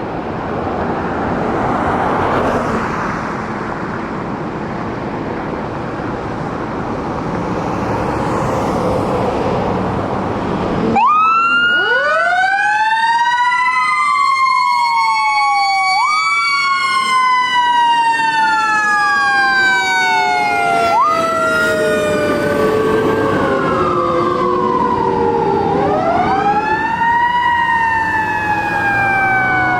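Road and engine noise of passing traffic for about the first ten seconds, then a fire engine's siren starts abruptly and wails in long rising and falling sweeps, several tones overlapping.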